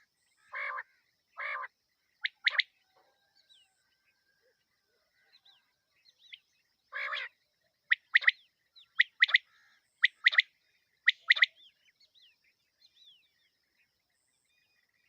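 Quail calling: a few low, rough notes, then a series of sharp paired notes about once a second, with faint chirps of other small birds behind.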